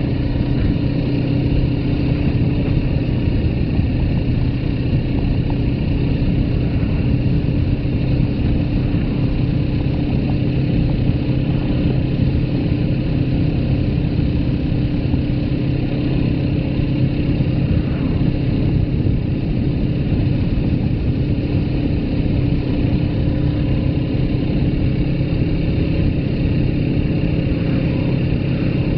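Suzuki GS500F's air-cooled parallel-twin engine running at a steady speed while the motorcycle is ridden, heard with wind and road rush. The engine note holds nearly one pitch throughout.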